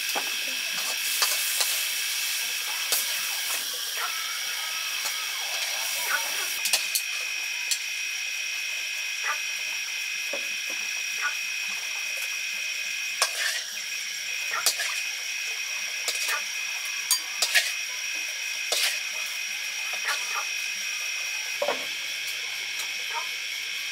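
Food sizzling in hot lard in a pan, with a steady hiss and frequent sharp crackles and pops. A steady high-pitched drone sits underneath.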